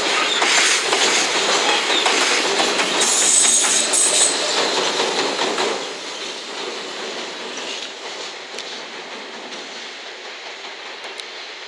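Freight train of loaded container wagons clattering past over the rail joints, with a brief high-pitched wheel squeal about three seconds in. About six seconds in, the tail of the train, with its rear EF210 electric banker locomotive, goes by, and the sound drops and fades as the train moves away.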